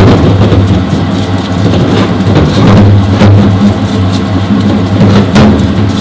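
A motor running steadily with a low hum under a hiss, with a few brief sharper knocks.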